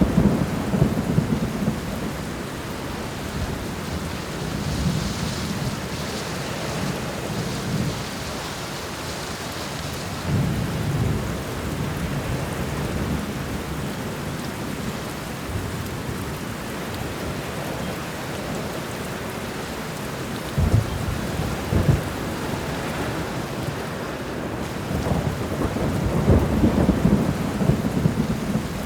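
Steady rain with thunder rumbling several times: at the start, around ten seconds in, as a sharper clap a little past twenty seconds, and as a longer rumble near the end.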